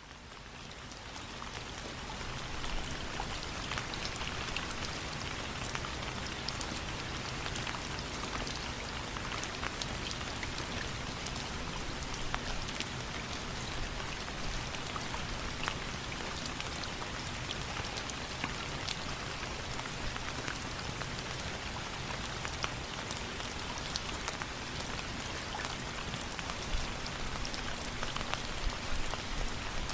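Steady rain, an even dense hiss of falling water with scattered sharp little ticks. It fades in from silence over the first couple of seconds, then holds steady.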